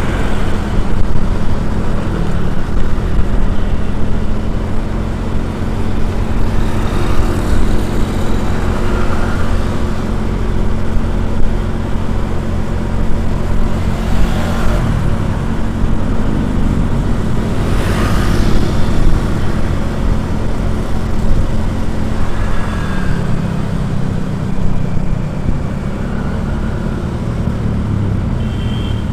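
Steady road-vehicle engine and road noise, a constant low rumble, with other vehicles swelling past about 14 and 18 seconds in.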